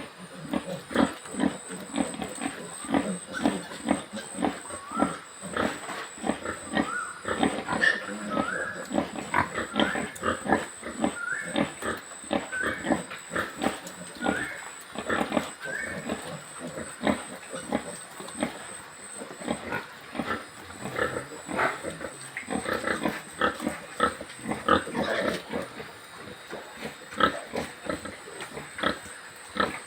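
Many pigs grunting continually in a dense, irregular chorus, with short rising squeals for a stretch in the first half. A faint steady high whine runs in the background until about two-thirds of the way through.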